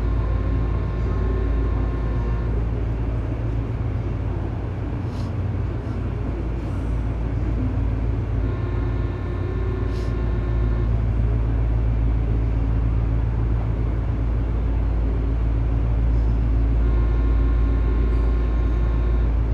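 Inside a Tobu 9000-series electric train car: a steady low rumble, with a faint whine of several tones that comes and goes roughly every eight seconds and a few light clicks.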